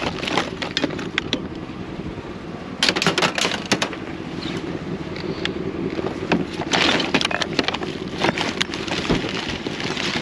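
Junk being rummaged through by hand in a scrap pile: hard plastic and metal items clattering, knocking and cracking against each other, in busy clusters about three seconds in and again around seven seconds, over a steady low hum.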